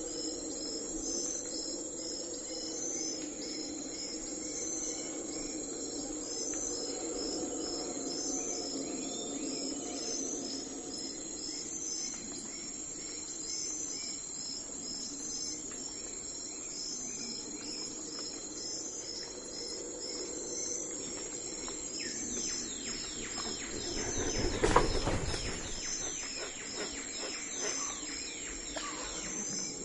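Crickets chirping in a steady, evenly pulsing rhythm, with a few bird calls. About three-quarters of the way through, a louder rattling run of rapid clicks swells up, peaks and fades over a few seconds.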